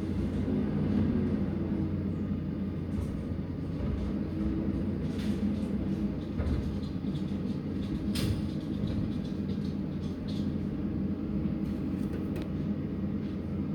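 Garbage truck's diesel engine running steadily with a low hum, with a few short knocks and clanks scattered through it.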